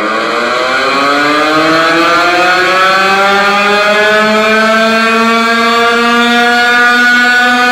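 A loud buzzy tone played through a large sound system, gliding slowly upward in pitch over the first few seconds and then holding steady.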